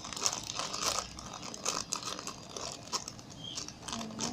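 Irregular crinkly rustling from a squishy toy being handled.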